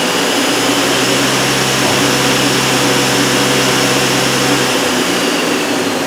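Sub spindle of a 2008 Hyundai Kia SKT-250LMS CNC lathe spinning at 4,000 RPM, a steady high-pitched whine over loud machine noise. Near the end the whine begins to drop in pitch.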